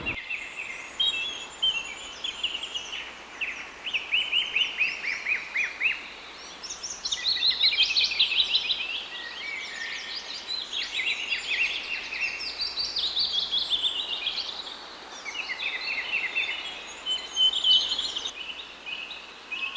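Birdsong: fast trills of high chirping notes in phrases of a second or two, overlapping almost without a break, over a faint steady hiss.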